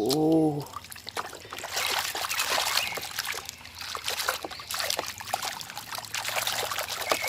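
Water trickling and splashing as a muddy toy vehicle is rinsed clean, with many small irregular splashes.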